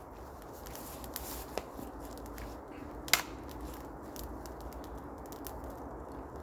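Wood campfire crackling as it burns up, with scattered small snaps and one loud sharp pop about halfway through.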